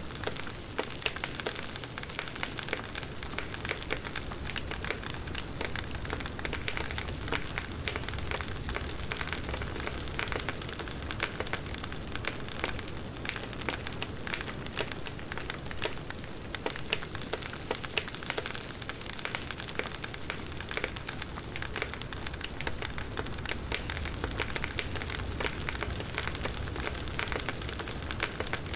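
Wood fire burning steadily, with a continuous stream of small crackles and pops over a low rumble of flame.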